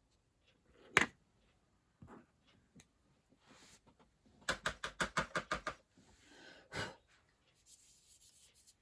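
Light taps and clicks of small craft items being handled on a desk: a single click, then a quick run of about eight light taps in the middle, and another tap a second later.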